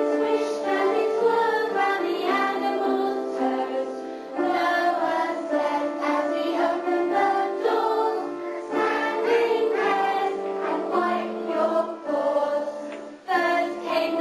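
A choir singing with sustained notes that shift in pitch every second or two.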